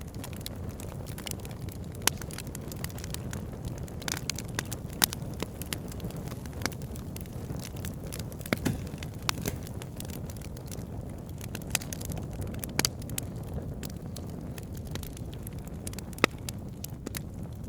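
Campfire crackling, with irregular sharp pops and snaps over a steady low rushing background.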